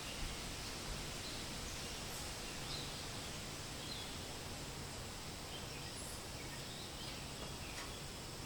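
Steady hiss of wind rustling through forest leaves, with faint, short bird chirps scattered through it every second or so.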